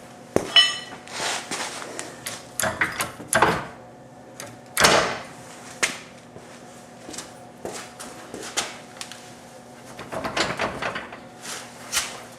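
Irregular metal clanks, knocks and short scrapes as bolts are worked up through the mounting holes of a car's rear subframe cross member. A ringing metallic clink comes about half a second in.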